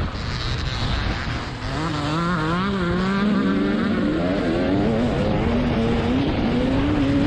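Single-cylinder two-stroke TM 300 motocross engine revving hard. Its pitch wavers up and down with the throttle and climbs toward the end, over a steady rush of wind and track noise.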